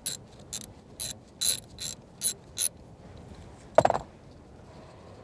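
Socket ratchet wrench clicking in short back-and-forth strokes, about three a second, then stopping. A single louder metallic clank about four seconds in.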